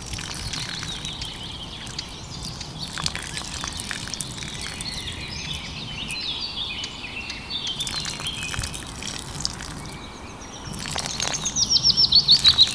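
Small birds chirping and twittering, ending in a quick series of repeated chirps near the end, with a few scattered sharp clicks or taps.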